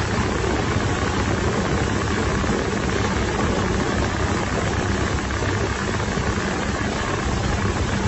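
Boat engine running steadily, a low even hum under a broad rushing hiss.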